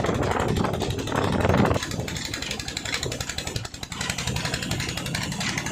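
Woodcutting saw machine running with a steady mechanical hum, louder and noisier for the first second and a half.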